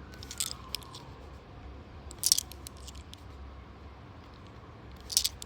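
Australian $2 coins clinking against each other as they are handled and sorted, in three short bursts of clicks about two seconds apart; the middle one is the loudest.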